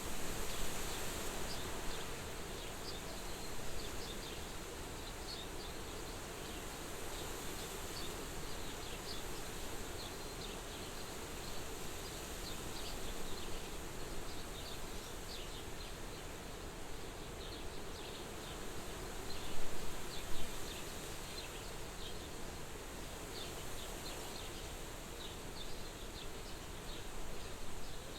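Soft wind at a farmhouse window, a steady even rush, with many short high chirps scattered throughout. It swells briefly louder about twenty seconds in.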